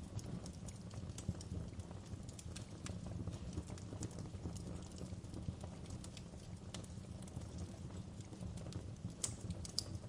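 Wood fire crackling, with irregular sharp pops and snaps over a low steady rumble of the flames, and a few louder pops near the end.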